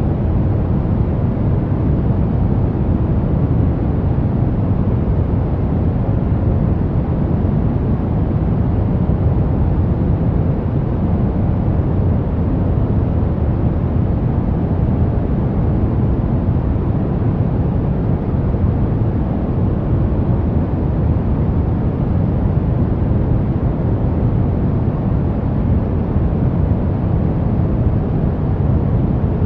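Synthetic pink noise playing steadily: an even, unbroken rushing hiss weighted toward the low end, with no change in level.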